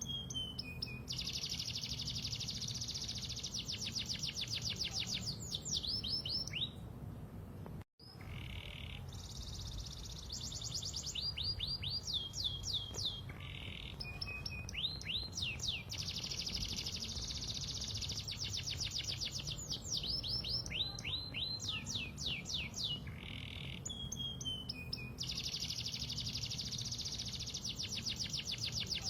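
Canary singing: long rapid rolling trills alternating with runs of fast falling whistled notes, in phrases that repeat. There is a brief break in the sound about eight seconds in, and a faint low hum runs underneath.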